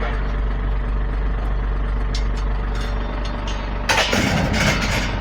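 Truck engine idling steadily. About four seconds in there is a loud burst of noise lasting about a second.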